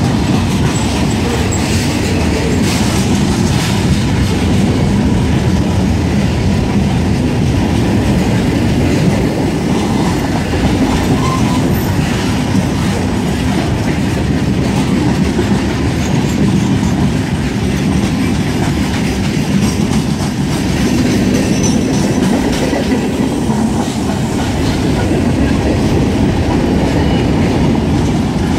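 Freight cars of a mixed freight train rolling past at speed: a steady, loud rumble of steel wheels on the rails.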